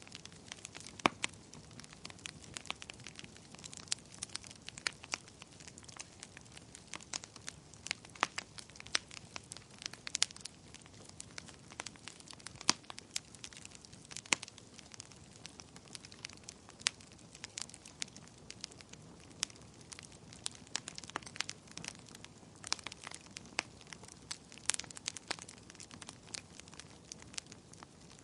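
A fire crackling, with frequent irregular sharp pops and snaps over a low steady hiss.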